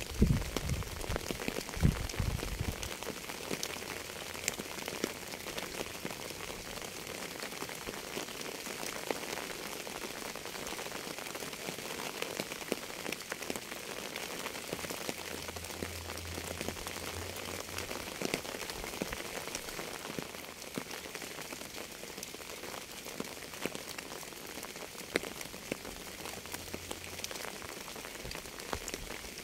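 Steady rain falling, a dense patter of individual drops over an even hiss, with two loud low thumps in the first two seconds.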